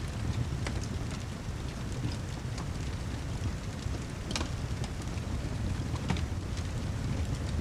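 Layered rain and fireplace ambience: steady rain with a low rumble, broken by scattered sharp crackles, the loudest about four seconds in.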